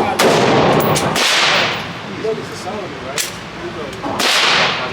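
Gunshots at a shooting range: several loud reports with a long ringing tail, near the start, about a second in and near the end, and a shorter, sharper crack around three seconds in.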